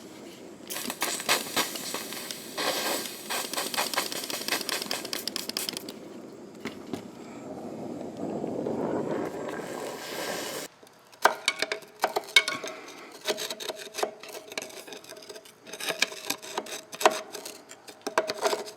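Metal work on a seized brake bleeder: dense rapid crackling and scraping for several seconds, a duller rushing noise, then scattered sharp metallic clicks and clinks of hand tools.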